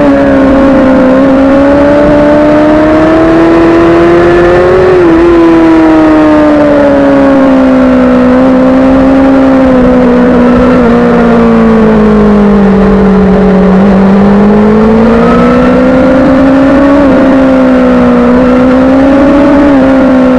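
Suzuki GSX-R sport bike engine running hard under way, its pitch rising and falling with the throttle, sagging lowest about two-thirds of the way through before climbing again.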